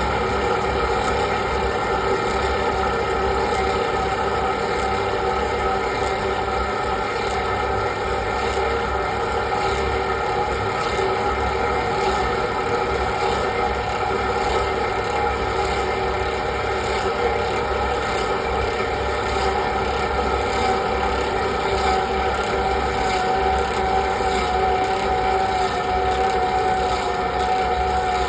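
Century-old steam-powered clog-copying lathe running at full power, its fast-spinning cutter carving a wooden block into the outside of a clog. A loud, steady machine whine with a faint regular ticking.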